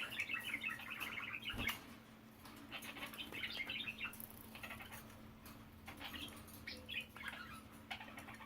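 Budgies chattering in soft, rapid bursts of chirps, with a sharp tap about one and a half seconds in and a faint steady hum underneath.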